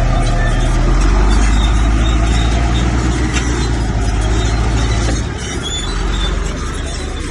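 Heavy diesel engine of earthmoving machinery working hard, a deep steady drone that comes in suddenly and eases off about five seconds in.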